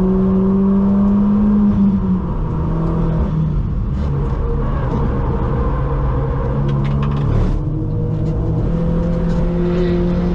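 Mk1 Audi TT's engine running hard under load at speed, a steady engine note that drops in pitch about two seconds in and breaks off briefly again past the middle, as with lifting off or changing gear, then holds steady again.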